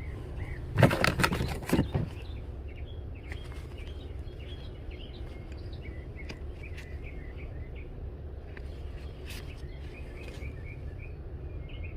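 Small birds chirping repeatedly over a steady low rumble, with a brief loud rustling clatter about a second in.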